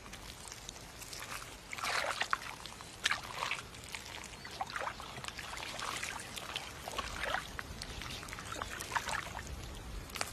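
Lungfish wriggling out of shallow water into mud: irregular wet squelches, slaps and drips, some close together and some spaced out.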